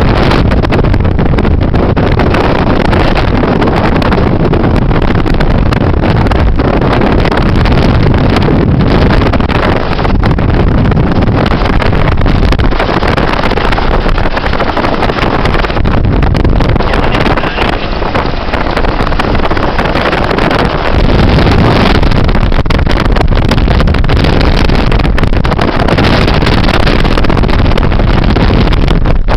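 Hughes 500 helicopter running, a loud steady noise of engine and rotors heard close up.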